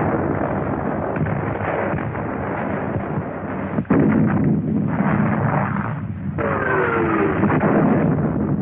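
Battle sound of artillery and gunfire, dense and continuous, on an old film soundtrack with a muffled top end. The sound changes abruptly about four seconds in and again a couple of seconds later, as at edits.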